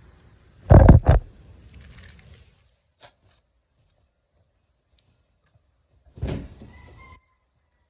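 Keys jangling with handling clunks: two loud thumps about a second in, a few light clicks, and a shorter clatter around six seconds. There is no engine running yet.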